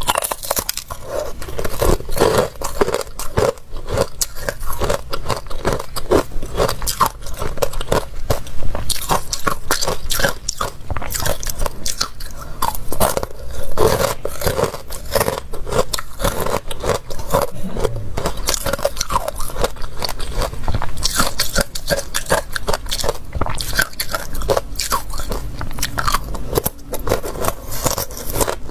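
A person biting and chewing crunchy ice: a dense, irregular run of crunches and crackles, with a couple of louder bites.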